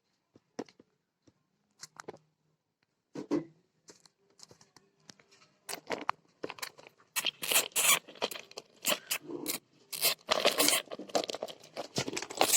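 Hamsters fighting: scrabbling claws and scratchy scuffling, sparse at first and then a dense, rapid run of loud scratching and clatter from about halfway through.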